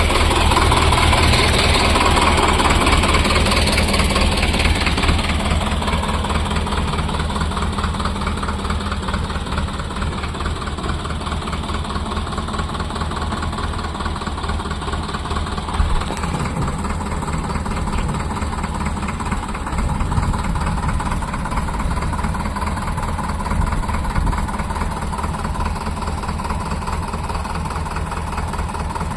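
Sonalika DI 750 tractor's diesel engine running steadily with a low, even firing rhythm, louder for the first few seconds and then settling to a slightly quieter steady run.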